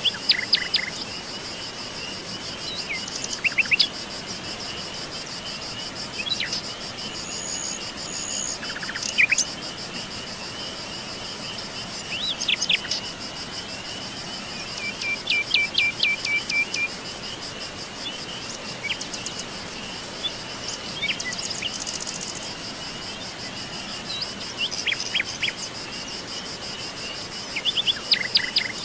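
Several birds chirping and calling on and off, short whistled notes and quick falling sweeps, over a steady high trilling of insects.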